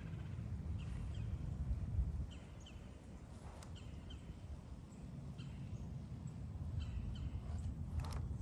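A songbird calling: short paired, slightly falling chirps repeated about once a second over a steady low rumble. A sharp click sounds near the end.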